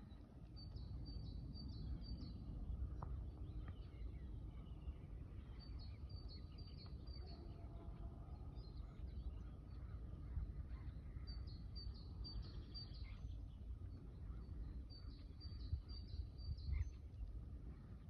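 A songbird repeating a short, high phrase of about five quick notes every four to five seconds, four times, with fainter calls of other birds between, over a steady low rumble.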